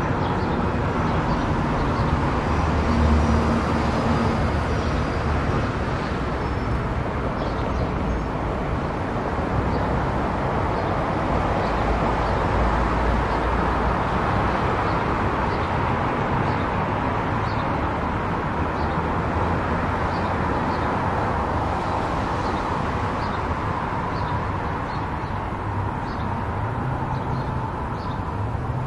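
A car cruising on an expressway: a steady rush of road and tyre noise over a low rumble, with faint light ticks every second or so.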